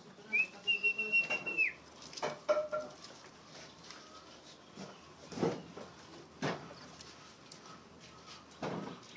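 Oriental magpie-robin (kacer) singing in the ngeplong style: one long, level, high whistle held for over a second that drops away at the end, followed by scattered short sharp clicks and brief notes.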